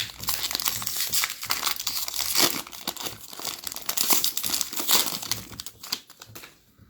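Plastic foil wrapper of a Panini Select trading-card pack crinkling and tearing as it is torn open by hand, dying away near the end.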